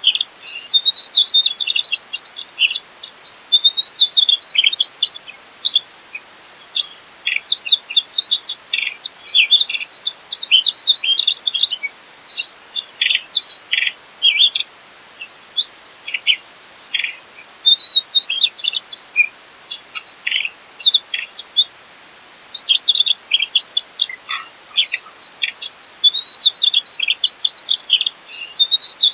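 Mugimaki flycatcher singing a long, varied run of quick high chirps, whistles and trills, with only a few brief pauses.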